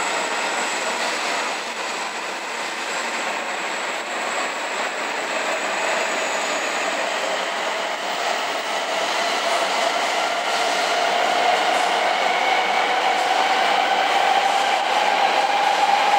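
E7/W7 series Shinkansen train departing and gathering speed: a steady rolling rush with a whine that rises slowly in pitch and grows a little louder as it accelerates.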